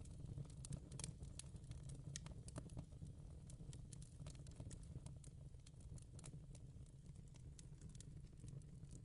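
Faint fireplace crackling: irregular sharp pops and snaps, several a second, over a low steady rumble.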